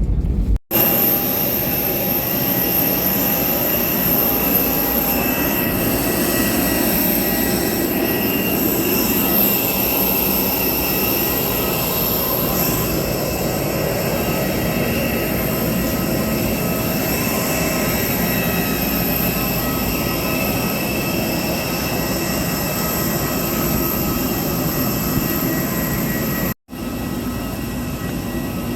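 Ship's engine-room machinery running steadily: a loud, dense drone with several steady high-pitched whines over it. It breaks off for an instant shortly after the start and again near the end.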